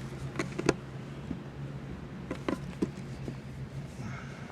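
A few light clicks and taps of a metal tin being handled and pried at while its lid is worked loose, over a steady low hum.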